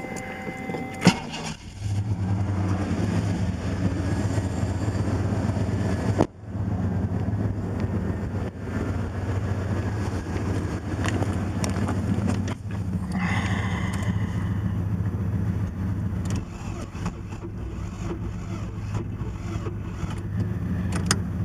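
Starter cranking the 1980 Porsche 924 Turbo's engine after about four months of sitting, without it catching. The cranking stops abruptly about six seconds in, then starts again.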